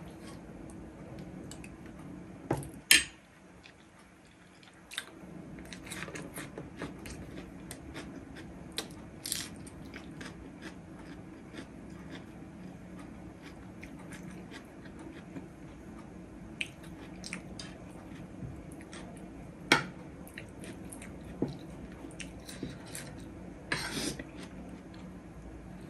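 Close-up chewing and biting of biryani and green chilli. A metal spoon clinks and scrapes on a ceramic plate, with the sharpest clinks about 3, 20 and 24 seconds in, over a low steady hum.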